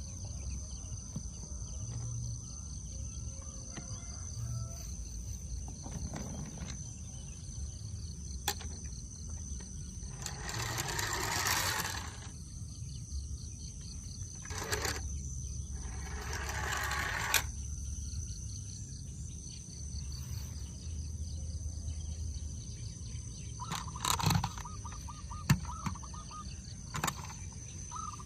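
Outdoor ambience with a steady high insect drone, broken by two longer rushing swells of noise and a few sharp clicks near the end.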